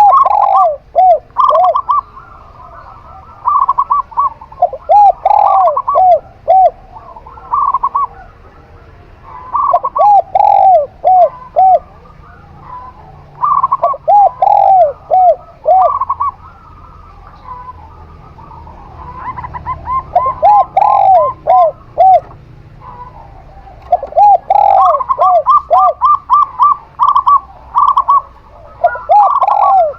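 Zebra dove (perkutut) and spotted dove (tekukur) cooing. Their phrases repeat every few seconds and often overlap: quick runs of higher coos alongside groups of lower, rounder coos.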